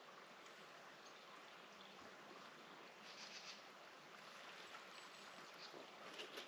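Near silence: a faint, steady outdoor hiss with a few soft ticks about halfway through and near the end.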